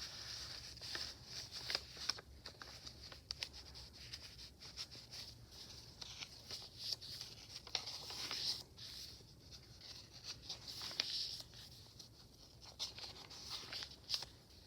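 Paper pages of a handmade journal being turned and handled: irregular rustling and crinkling with light taps and clicks.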